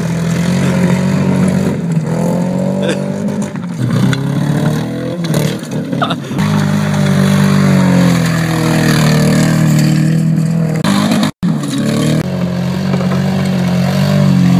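Hyundai Accent's four-cylinder engine revving hard under full throttle, its pitch rising and falling as the car slides through loose dirt. The sound drops out for an instant about two-thirds of the way through.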